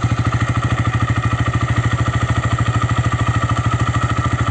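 TVS Raider 125's single-cylinder engine idling steadily and evenly. It runs with a clean, quiet note now that two loose nuts inside the engine, the cause of its engine noise, have been tightened at service.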